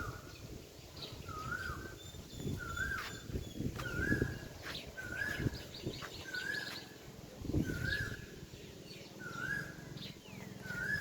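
A bird repeating one short whistled call about once a second, with fainter high chirps from other birds and a few scattered knocks.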